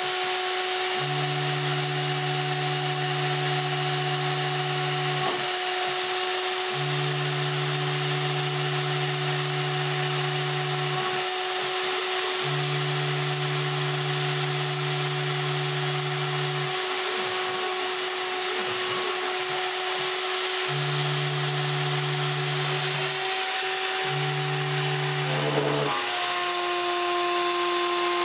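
Router spindle on a homemade CNC machine milling aluminum with a 1/4-inch single-flute endmill, a steady high whine over a constant hiss. The stepper motors hum in stretches of a few seconds as the axes move, with short gaps between moves. The whine shifts pitch near the end.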